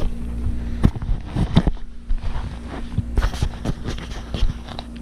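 Scattered knocks and clunks of parts being handled and set down, over a steady low hum.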